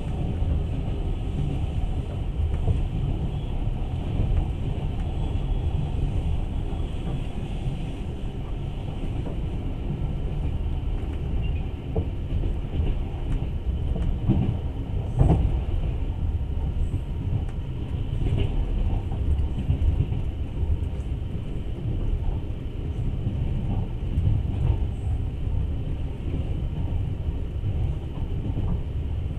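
Passenger train running along the track, heard from inside a carriage: a steady low rumble of wheels on rails, with a few light knocks around the middle.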